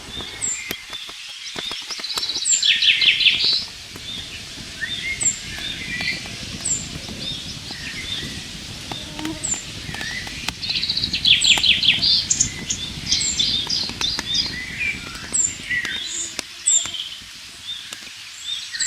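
Songbirds singing: a short high chirp repeated about every second and a half, with a louder rapid song phrase a few seconds in and again around eleven seconds, over low rustling and a few light clicks.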